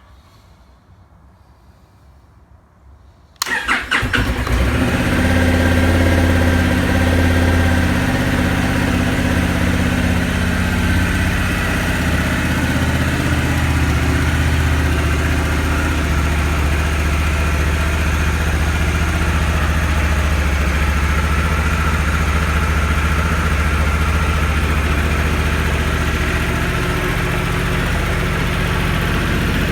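Honda Africa Twin CRF1100's 1084 cc parallel-twin engine being cold-started: it catches suddenly about three seconds in, then idles steadily.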